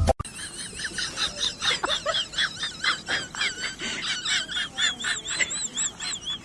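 Many small birds chirping together, short high overlapping calls, with one bird repeating a quick arched note about four times a second from about four seconds in.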